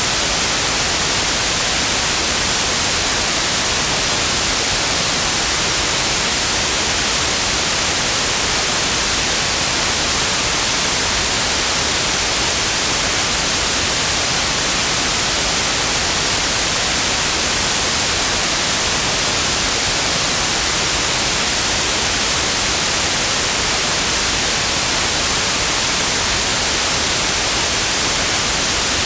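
Steady synthetic white noise: an even, unchanging hiss, strongest in the high end.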